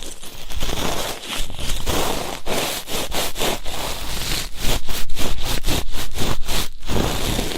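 Ear-cleaning ASMR sounds: an ear-cleaning tool scraping and rubbing close against the microphone, in a run of quick, short strokes in the second half.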